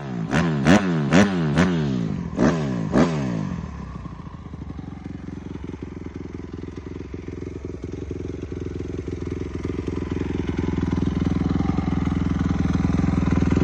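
Honda CRF250 dirt bike's single-cylinder four-stroke engine, big-bored to 290 cc, blipped on the throttle about six times in quick succession, then settling into a steady idle.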